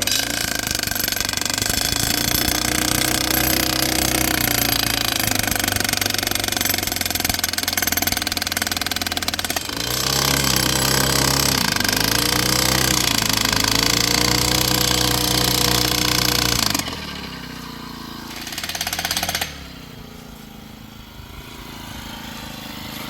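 Petrol-powered post driver hammering a fence post in, rapid and loud, stopping about 17 seconds in. An engine keeps running more quietly afterwards.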